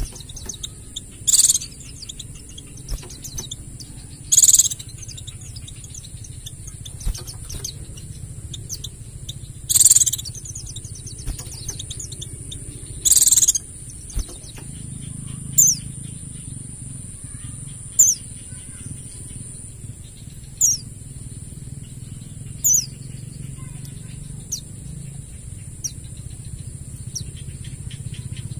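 White-eyes (pleci) calling: loud rapid chattering trills every few seconds, then in the second half short single chirps that fall in pitch. A steady high-pitched whine runs beneath and stops about two-thirds of the way in.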